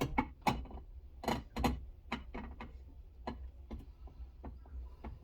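Irregular sharp clicks and knocks of metal parts and tools being worked inside a car door while a window regulator and motor are fitted, several a second at first and then sparser and fainter.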